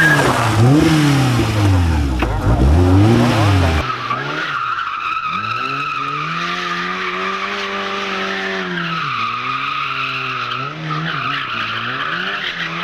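Rally car engines revving hard, the pitch sweeping up and down quickly through gear changes and throttle lifts. About four seconds in, an abrupt cut to another car, its engine rising and falling more slowly, with tyres squealing.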